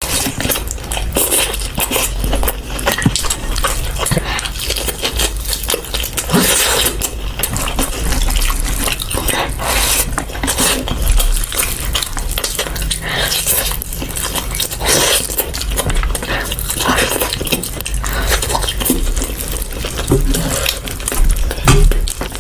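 Close-miked eating sounds of mutton rice and egg: wet chewing and mouth noises, mixed with short clicks and clatters of food being handled on the plate.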